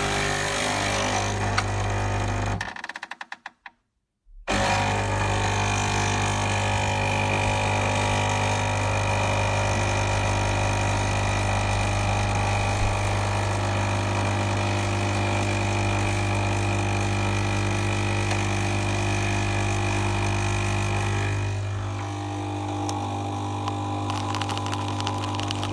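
Coffee machine running with a steady mechanical hum. It cuts out about three seconds in, falls silent for about a second, then starts again, and about 21 seconds in it drops to a slightly quieter, different tone.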